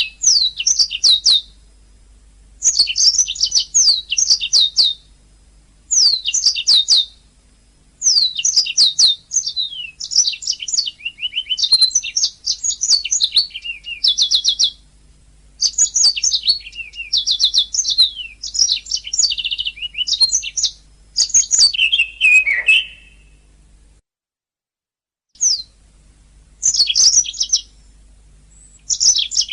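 Domestic canary singing: bursts of rapid, high trills and repeated chirping notes, phrase after phrase with short pauses between. The sound cuts out completely for about a second about two-thirds of the way through, then the song resumes.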